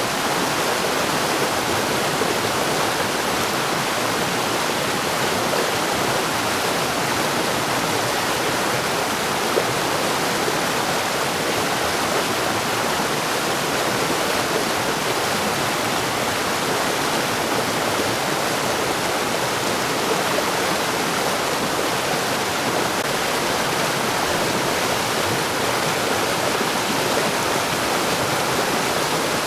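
Mountain stream rushing over rocks, a steady even wash of water noise.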